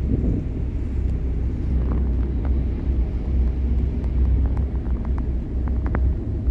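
A harbour ferry's engines running, a steady low rumble.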